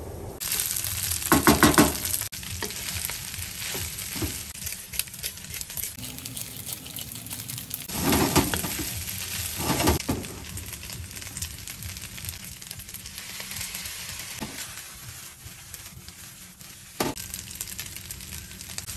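Fried rice sizzling in a hot nonstick frying pan as it is stirred and tossed, with two louder flare-ups of sizzling, one about a second in and one around eight to ten seconds in, and a few short scrapes or taps against the pan later on.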